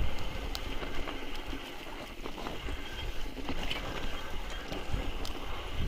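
Mountain bike ride: a steady rumble of wind on the microphone and tyres running over rough ground, with scattered short clicks and rattles from the bike.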